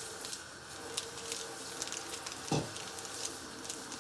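Pot of water with soup base heating on the stove, crackling and ticking as it comes to the boil. One soft knock comes about two and a half seconds in.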